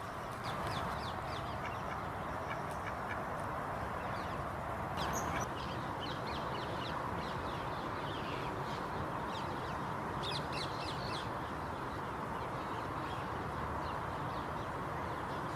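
Birds calling in short, sharp bursts, in clusters near the start, about five seconds in and around ten seconds in, over a steady background hiss.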